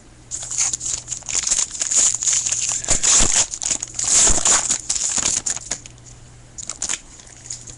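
Wrapper of a 2013 Panini Pinnacle baseball card pack crinkling as it is torn open and peeled back. The crackle dies down after about five and a half seconds, leaving a few faint clicks near the end.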